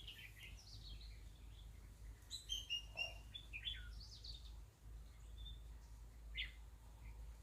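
Birds chirping: short, high notes and quick glides scattered through, busiest a couple of seconds in, over a faint low hum.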